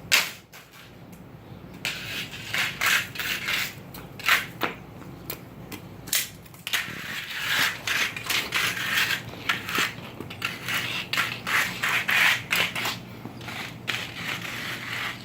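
A long-handled tool being pushed under a truck, scraping and knocking along the garage floor in irregular strokes. It begins with one sharp knock and gets busier about seven seconds in.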